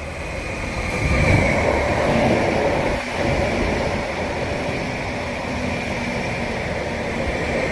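Greater Anglia passenger train pulling into the platform, a rumbling run-in with a high steady whine over it as it slows to stop.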